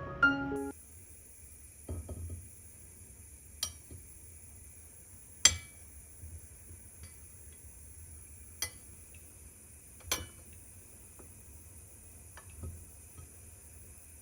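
Piano music cuts off at the start, then dishes or utensils are handled: about half a dozen separate sharp clinks and light knocks, spaced a second or two apart, over a faint steady hiss.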